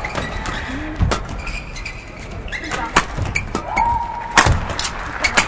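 Badminton rally: sharp racket strikes on the shuttlecock every second or two, with brief high squeaks of court shoes and a steady hall crowd noise underneath.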